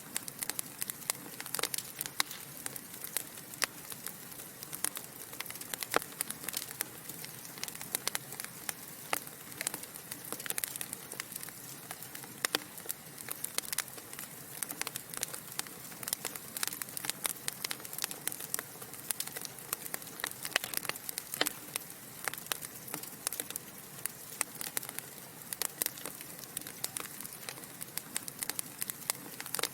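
Wood fire burning in a fireplace: a steady low hiss under frequent sharp, irregular crackles and pops of the burning logs.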